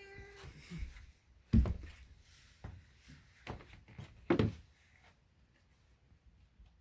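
A cat's meow trailing off at the start, then a series of thuds and knocks on wood as the cats scramble about, the loudest about a second and a half in and another pair just past four seconds.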